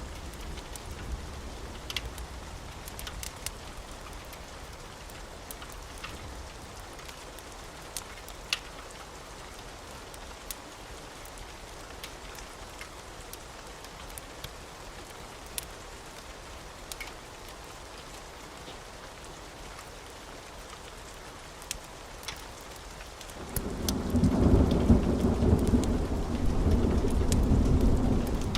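Wood fire crackling: a steady hiss with scattered sharp pops. About 23 seconds in, a loud low rumble swells up and keeps going under the crackles.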